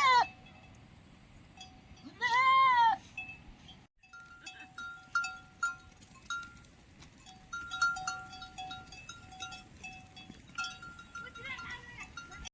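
Herd livestock bleating: one long, loud bleat that rises and falls about two seconds in, after the tail of another at the start. Then small metal bells on the animals clink irregularly at two fixed pitches as they move about.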